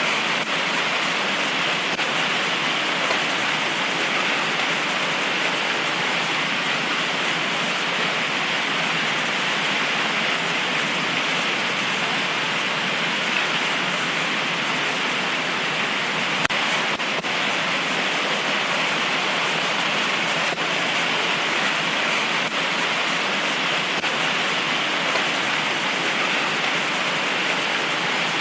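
Heavy tropical rain pouring steadily, an even, unbroken wash of sound with a few faint sharper drop ticks.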